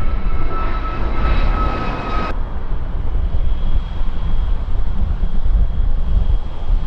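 Jet airliner engines running: a steady high whine over a heavy low rumble. About two seconds in the sound cuts off abruptly to a lower rumble with one fainter whine.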